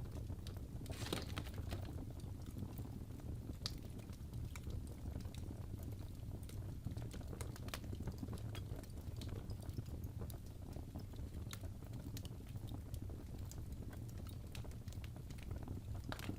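Wood fire in a fireplace crackling: scattered small snaps and pops over a steady low rumble, with a longer crackle about a second in.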